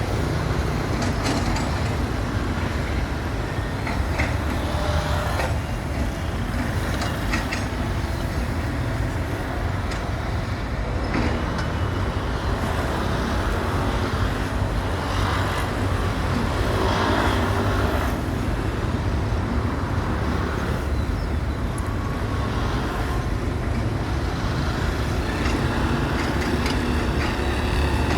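A steady low engine-like rumble throughout, with scattered light clicks and short scrapes on top.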